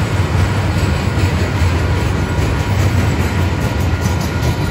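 Freight train passing close by: a loud, steady low rumble of the train on the rails, with no let-up.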